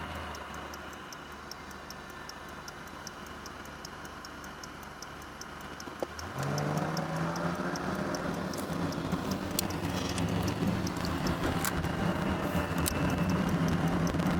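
A car's turn signal ticking steadily about twice a second, then, about six seconds in, the engine picks up and runs louder with rising pitch as the car pulls away.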